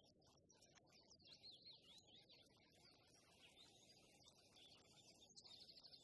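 Faint songbirds singing: quick high chirps and sweeping notes, with a fast trill near the end, over soft low background noise.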